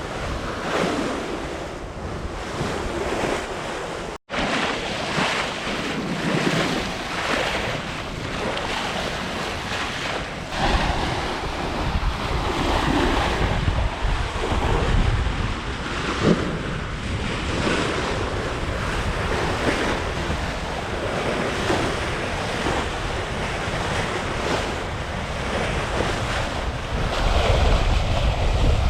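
Seawater rushing and slapping along the hull of a Hallberg-Rassy 54 sailing yacht sailing close-hauled at speed, with spray washing over the foredeck and wind buffeting the microphone. The sound surges unevenly with the waves and drops out for a moment about four seconds in.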